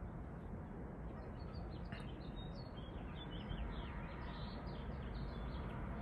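Small birds chirping in many short, high calls over a steady low background noise, with a light click about two seconds in.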